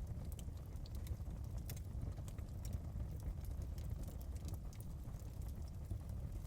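Wood fire in a fireplace crackling: frequent irregular small pops and snaps over a steady low rumble of the burning flames.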